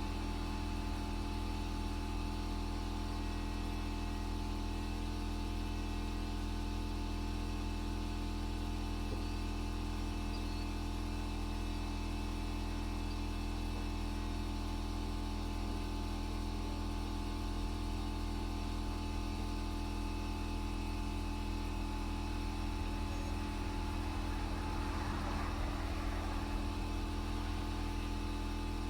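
A machine running steadily at constant speed: an unchanging, engine-like low hum.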